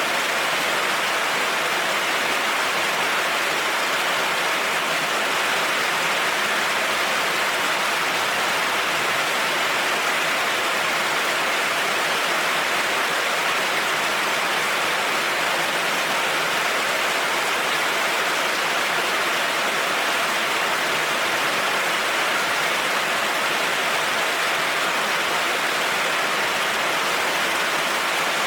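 Heavy rain falling steadily on a road: an even, unbroken hiss with no thunder.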